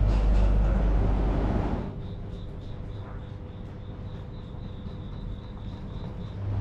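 Low, loud rumble of the train, which cuts off suddenly about two seconds in. A quieter background follows, with a rapid, regular high-pitched chirping of about four pulses a second.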